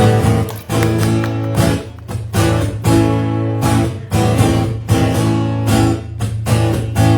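Acoustic guitar strummed in a steady rhythm of chords, playing the introduction of a song.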